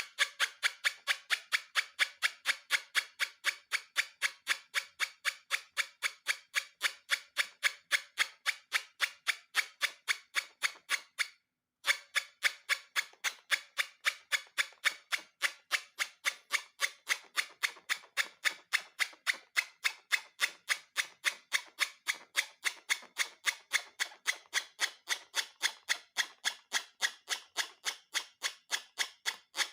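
A steady rhythm of sharp clicks, about three to four a second, that stops briefly near twelve seconds in and then carries on.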